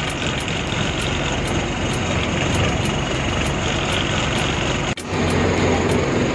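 Engine and road noise of a Tata ten-wheel truck, heard inside the cab. It is a steady, dense rumble that drops out for an instant about five seconds in.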